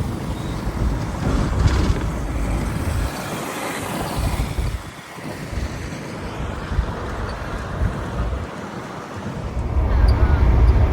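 Vehicle rumble with wind buffeting the microphone. It thins out for a few seconds midway and grows louder near the end.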